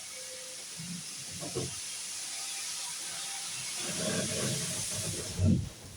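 Steam locomotive hissing steam steadily, the hiss cutting off suddenly near the end. Low rumbling builds in the second half, with a sharp thump just before the hiss stops.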